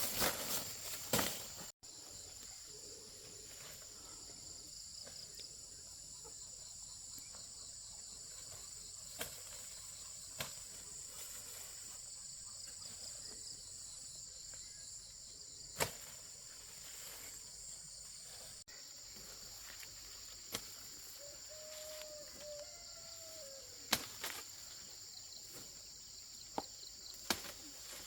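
Insects chirring steadily in a high, even drone, with scattered sharp clicks and knocks, the loudest sounds, here and there.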